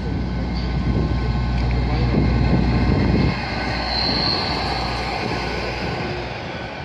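A Great Western Railway Class 800-series Intercity Express Train rolls slowly past the platform with a steady low hum. The sound swells, then drops suddenly about three seconds in. A brief high-pitched squeal follows about a second later.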